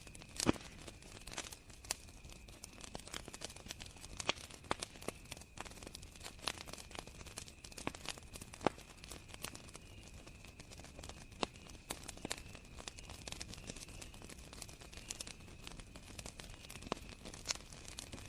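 Wood fire crackling with irregular sharp pops, the strongest about half a second in and near eight and a half seconds, over a continuous high trill of crickets.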